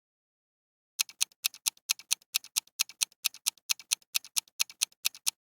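Countdown-timer sound effect: a clock ticking fast and evenly, about four or five ticks a second. It starts about a second in and stops shortly before the end.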